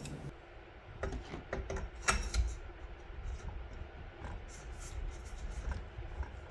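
Irregular light clicks and taps of trampoline parts being handled during assembly, with a sharper knock about two seconds in.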